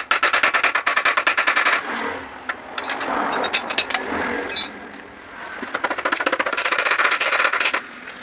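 A machine running with a rapid, regular pulse of about ten beats a second. It stops for a few seconds of irregular clatter about two seconds in, then runs again near the end.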